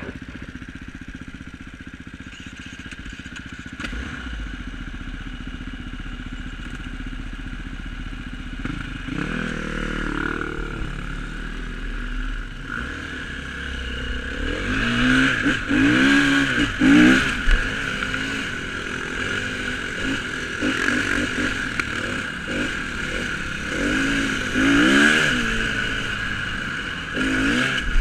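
Dirt bike engine running, first fairly steadily, then revving up and down repeatedly as it is ridden, the pitch climbing and dropping with each burst of throttle.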